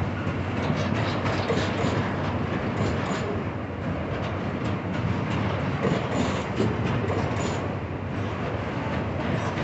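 Freight train of container flatcars rolling past: a steady rumble of steel wheels on the rails, with scattered clacks and clicks.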